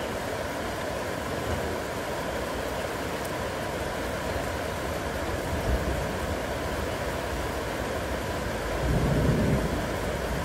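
Heavy rain falling steadily, with a brief low rumble about nine seconds in.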